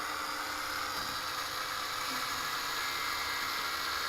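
A small electric motor runs with a steady whirring hiss.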